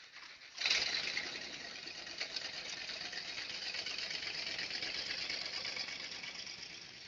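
Steady vehicle running noise picked up by a dash cam, starting abruptly a little after half a second in, then fading slightly and holding steady.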